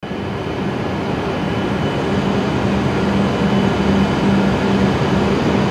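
Steady rumble of shinkansen trains at a station platform with a low pulsing hum, slowly growing louder.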